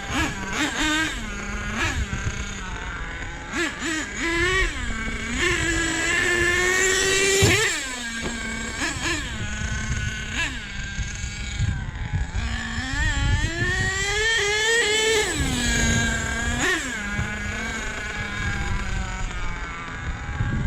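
Small nitro RC truck engine revving up and down under repeated throttle bursts: a buzzing whine that climbs and drops again and again, with longer held climbs about five to eight seconds in and again around thirteen to sixteen seconds.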